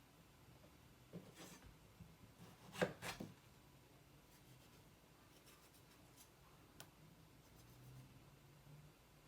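Quiet kitchen handling: a few short knocks and scraping sounds between about one and three seconds in, the loudest a sharp knock near the three-second mark, then faint rubbing over near silence.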